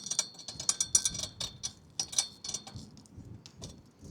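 Metal clicks and clinks of a wrench working the nuts on an antenna mast's rotor bracket, several sharp ringing ticks a second for the first few seconds, then fewer.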